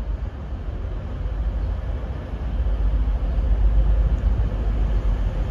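Class 185 diesel multiple unit arriving at a platform: a low engine rumble with a faint steady tone, growing louder about halfway through as the train draws closer.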